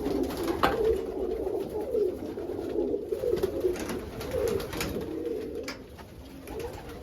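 Several domestic pigeons cooing continuously in an enclosed coop, with a few sharp clicks or knocks.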